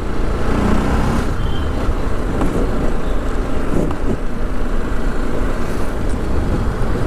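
Ride noise from a TVS Apache RR 310 single-cylinder motorcycle moving through city traffic: steady engine and road rumble with surrounding vehicles.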